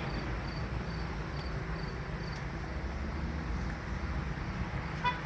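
Steady low background rumble of room or traffic noise, with faint high chirps repeating about twice a second in the first half.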